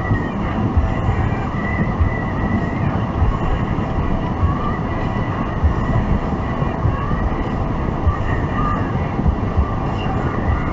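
Steady road and engine rumble heard from inside a moving car, with low buffeting on the microphone.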